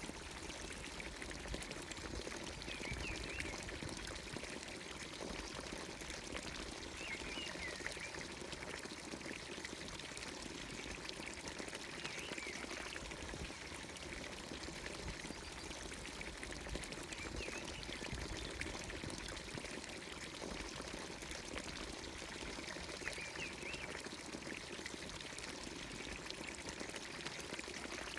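Water pouring steadily from a village fountain's spout into its trough, running abundantly. A bird gives a short call about every five seconds.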